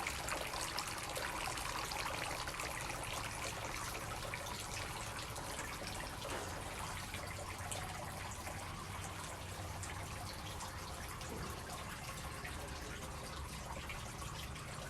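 Solar three-tier bird bath fountain running: water steadily trickling and splashing from tier to tier into the polyresin bowls.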